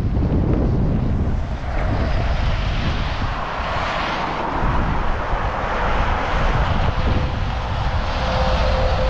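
Wind buffeting the microphone, with a steady engine drone from a distant vehicle or aircraft that swells in the middle and holds a steady tone near the end.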